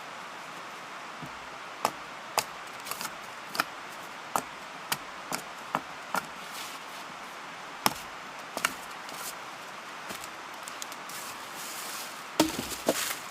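Wood being chopped with a blade: sharp, irregularly spaced knocks, about one or two a second, with a louder cluster of blows near the end.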